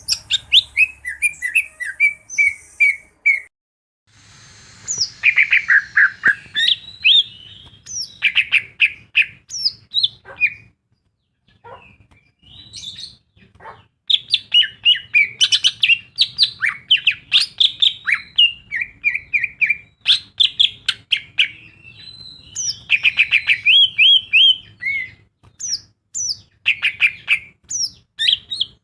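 Cucak ijo (green leafbird) singing a varied, rapid song of chirps, trills and whistled glides, with a pause of a few seconds near the middle.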